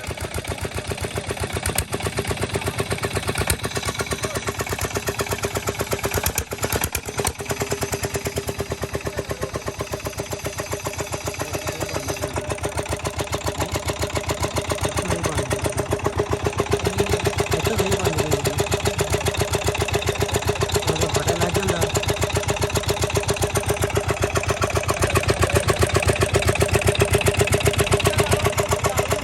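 Petter single-cylinder diesel engine driving a mini tubewell pump, running steadily with an even, rapid beat of firing pulses. It grows slightly louder in the last third.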